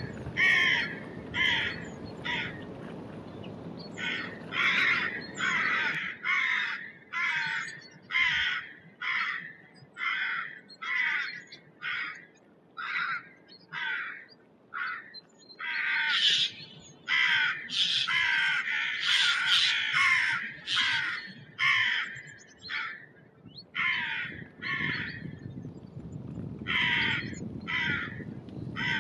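Birds cawing over and over, short harsh calls about one or two a second, with several calling at once in the middle.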